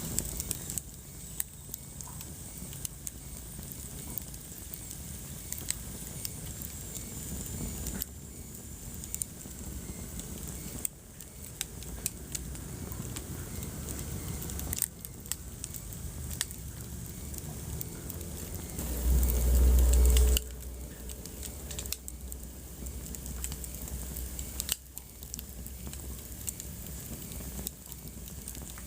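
Wood fire crackling in a fireplace, with scattered sharp pops and snaps over a steady low rumble. About two-thirds of the way through, a much louder low rumble swells for about a second and a half, then drops back.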